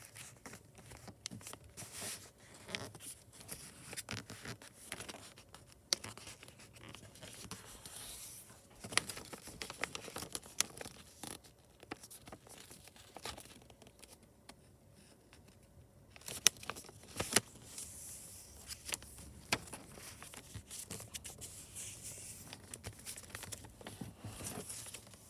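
A sheet of paper rustling and scraping as it is folded and creased by hand, with scattered sharp crinkles and taps, and a brief lull partway through.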